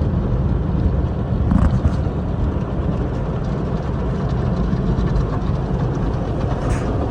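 Automatic car wash machinery working over the car, heard from inside the cabin: a steady low rumble of washing noise with a couple of brief knocks.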